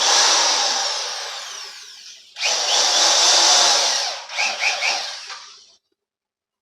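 Power drill with a regular twist bit boring into a metal plate, in two runs: the first fades over about two seconds, the second starts right after and stops suddenly about a second before the end.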